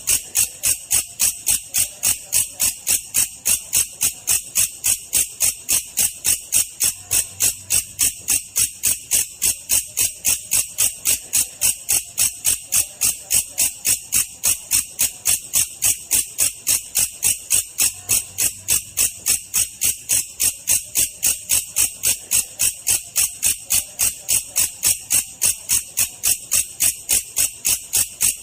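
Belalang kecek katydid call, slowed down: a steady train of sharp, high chirps repeating evenly at about three a second.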